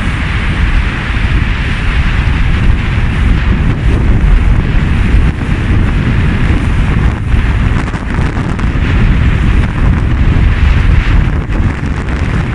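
Strong wind buffeting the microphone aboard a sailing yacht under way, a heavy low rumble with a steady hiss above it.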